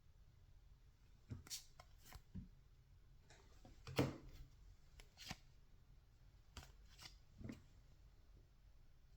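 Baseball trading cards being handled and flipped through one by one. There are soft, scattered card clicks and slides, about ten in all, the loudest about four seconds in.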